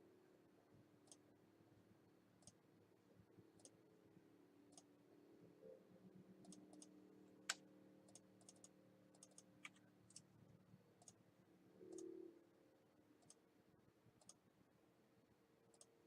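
Faint, irregular small clicks over a low steady hum, with one sharper click about seven and a half seconds in.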